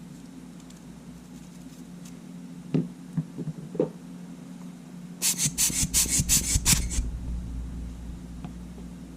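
Small camera parts handled and scrubbed on a workbench while sand is cleaned out of a Sony A7's shutter button assembly. A few light clicks come first, then a quick run of about seven scratchy strokes about five seconds in, over a steady low hum.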